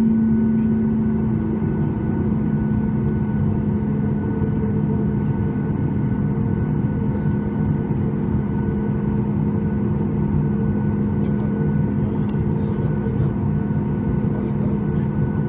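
Cabin noise of a Boeing 737 MAX 8 with its CFM LEAP-1B engines running, before takeoff: a steady rumble with a constant low hum that holds an even level throughout.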